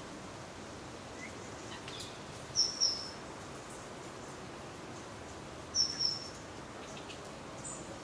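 Two short, high bird chirps about three seconds apart, each a quick double note, over a steady outdoor background hiss.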